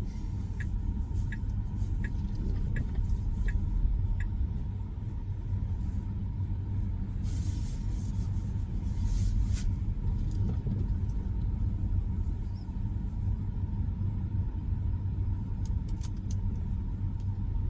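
Steady low tyre-and-road rumble inside the cabin of an electric Tesla Model Y driving over a snow-covered, uneven road. A turn signal ticks about every 0.7 s for the first four seconds or so, during a left turn.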